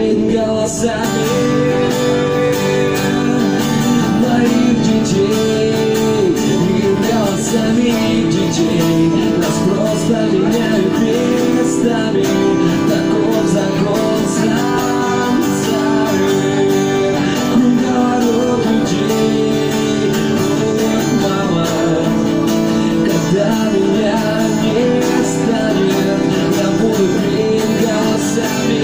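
Acoustic guitar playing a song, with a voice singing along.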